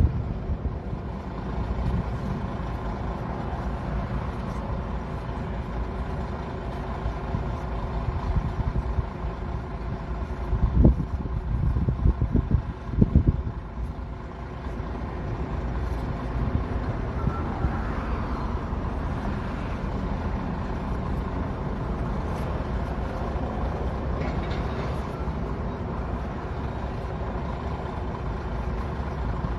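Large diesel engine running steadily at the derailment clean-up, with a few heavy low thuds about halfway through.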